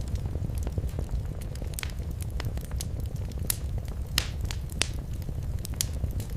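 Wood fire crackling in a fireplace: sharp irregular pops and snaps over a low steady rumble of the flames, the loudest snap about four seconds in.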